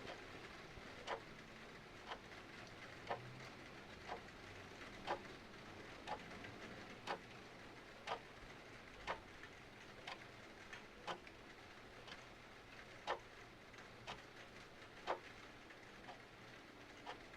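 Clock ticking about once a second, some ticks stronger than others, over a steady hiss of rain.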